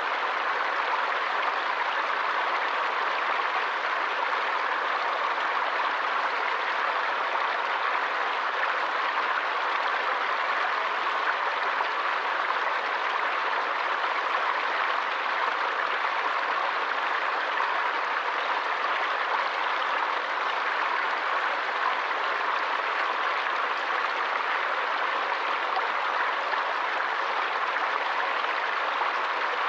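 Forest stream flowing steadily, an even rushing of running water with no breaks.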